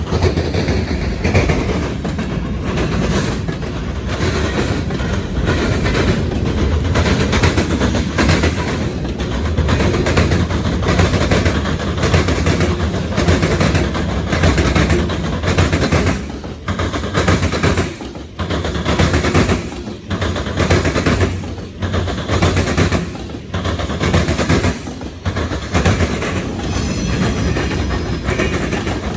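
A freight train's wheels pounding over railroad diamonds (flat track crossings), a continuous heavy clatter of banging impacts as car after car crosses.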